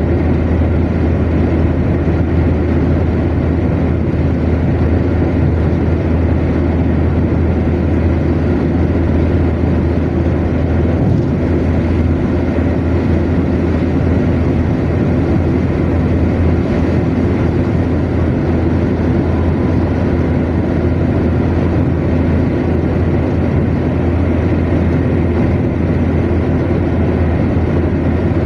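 A car cruising at steady motorway speed: a continuous low rumble of tyres on the road surface and the running engine, unchanging throughout.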